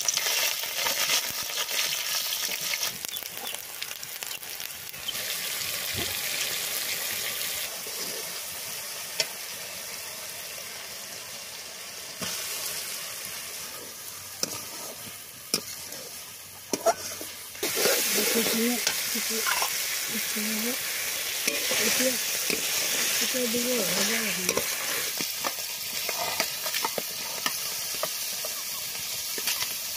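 Onion and garlic frying in hot oil in an aluminium kadai: a steady sizzle, with a metal spatula scraping and clicking against the pan as it stirs. The sizzle is loudest at the start and swells again a little past halfway.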